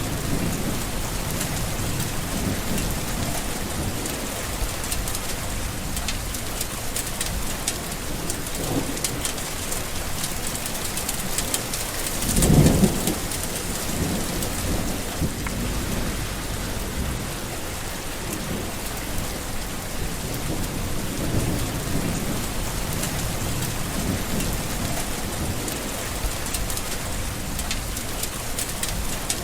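Steady heavy rain with low rolls of thunder, one louder thunderclap about halfway through.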